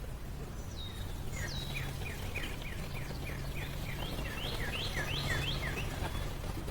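A small bird singing a rapid series of short, down-slurred chirps, about three a second, for about four seconds over a steady low hum.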